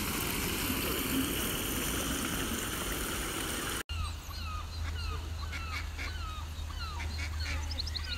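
A steady hiss of outdoor noise, then, after an abrupt cut about four seconds in, birds chirping with many short, repeated falling calls over a low steady rumble.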